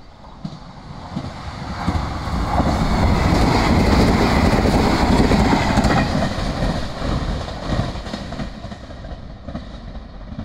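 Limited express Yakumo electric train passing through the station without stopping. Its sound builds over about two seconds and is loudest for a few seconds with a fast clatter of wheels over the rails, then fades steadily as it runs away.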